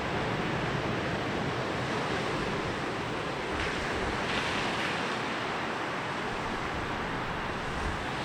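Sea waves rolling in and washing up a beach: a steady surf hiss, swelling louder and brighter for about a second and a half near the middle as a wave breaks.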